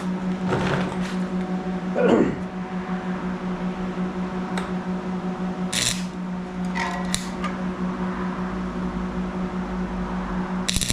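Welding machine humming steadily, with a few scattered clicks and knocks of handling; right at the end the arc strikes and starts crackling.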